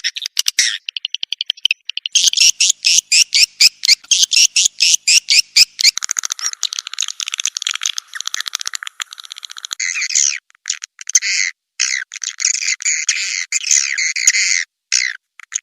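Recorded swiftlet calls played as a lure sound to draw swiftlets to roost in a nesting house: a dense, rapid chirping and clicking twitter. About six seconds in, a fast run of sharp pulses gives way to a fuller chattering chorus, with a few brief gaps near the end.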